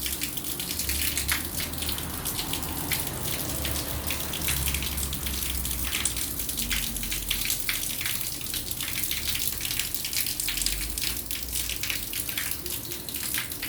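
Light rain falling and dripping: many irregular sharp drop ticks over a steady wash of water.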